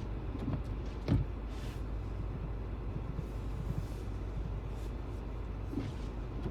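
Steady low road rumble heard inside a moving car's cabin, with one brief knock about a second in.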